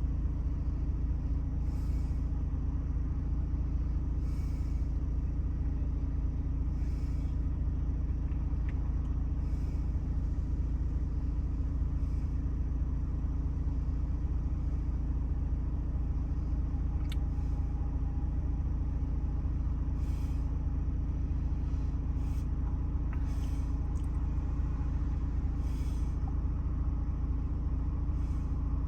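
2018 Ford Transit's 2.0-litre four-cylinder Duratorq diesel idling steadily, with a few faint short hisses and one click over the steady running.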